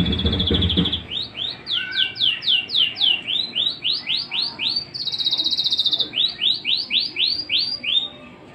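White-rumped shama singing: a rapid trill, then a run of quick rising whistled notes about four a second, a faster high trill about five seconds in, and another run of rising notes that fades near the end.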